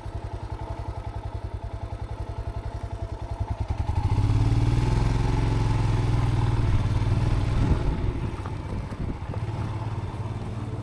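Motorcycle engine idling with an even chugging beat, then about four seconds in it opens up louder as the bike pulls away and runs steadily under load, easing off near the end.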